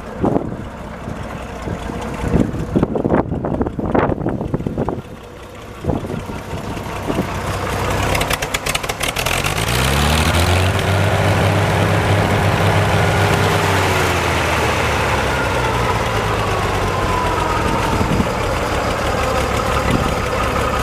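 Farmall 560 tractor's six-cylinder engine running. It is preceded by scattered knocks in the first several seconds, then revs up about ten seconds in, holds, and eases back down.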